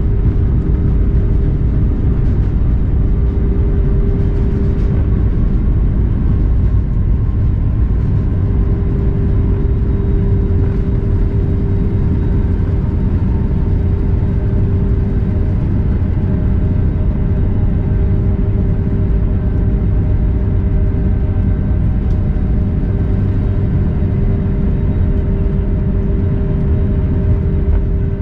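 Cabin noise of an Airbus A320neo rolling on the ground after landing: a loud, steady low rumble with the engines' even hum and a steady mid-pitched tone.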